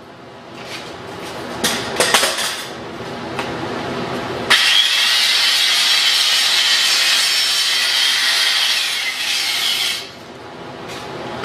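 Stick-welding arc on steel pipe, run downhill: a steady crackling hiss that starts abruptly about four seconds in and breaks off about ten seconds in. Before it come scattered scraping and clicks.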